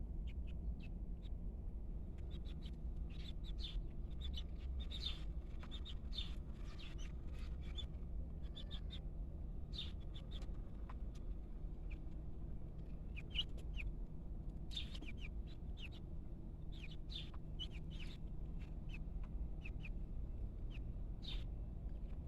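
Young chickens peeping, with many short high chirps scattered throughout, over a steady low hum.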